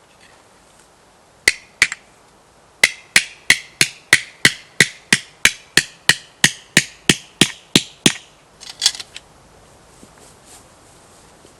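A quick, even run of sharp striking blows, about three a second and each ringing briefly, preceded by two single blows and ending about eight seconds in; a few softer knocks follow.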